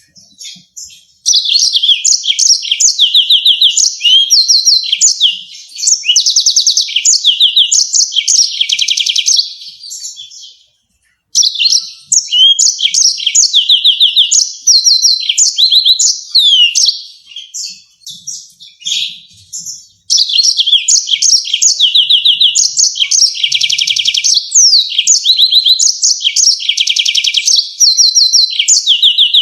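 Yellow-fronted canary singing long, fast rolling trills of high notes in phrases several seconds long, with a short break about ten seconds in.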